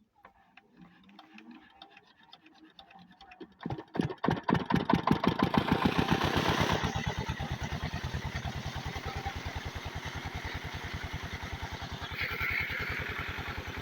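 8 hp diesel water pump engine being started: faint, slowly quickening beats for about four seconds, then it fires and runs loudly. After about three more seconds it settles into a steady, even beat.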